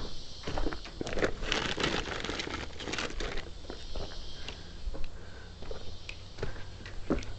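Rustling and crackling with many light knocks and clicks, busiest in the first half, over a steady high hiss.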